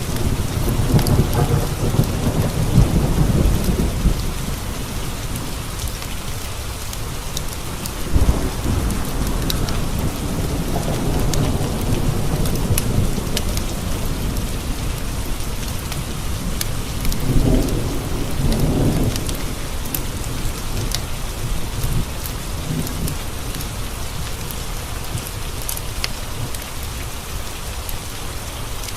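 Steady rain with rolls of thunder: a long low rumble in the first few seconds, and more rolls swelling and fading through the middle. Scattered sharp ticks sound over the rain.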